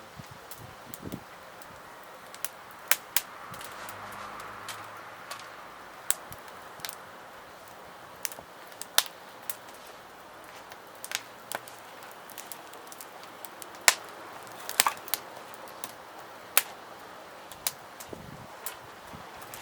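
Wood fire crackling, with sharp snaps and pops at irregular intervals over a steady low hiss.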